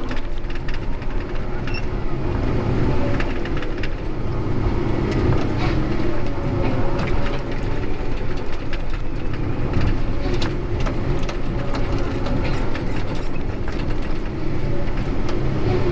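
Heavy machine engine running steadily, with many sharp clicks, knocks and rattles throughout.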